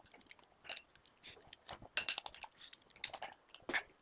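A person chewing food close to the microphone, a string of irregular wet clicks and crackles, loudest about two seconds in and again shortly before the end.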